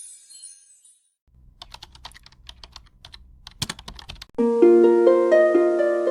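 Computer keyboard typing sounds: a run of quick, irregular key clicks over a low hum. About four and a half seconds in, a bright melody of plucked, ringing notes starts.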